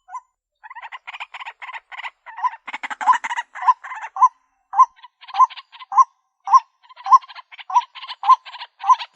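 White-breasted waterhen calling: a short hooked note repeated about twice a second over a fast, harsh rattling chatter, after a brief break just after the start.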